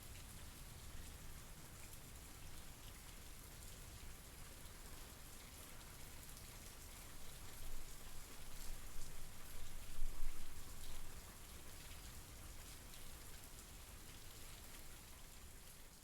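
Steady rain falling, a dense patter of drops. About halfway through it swells louder and deeper for a few seconds, then settles back.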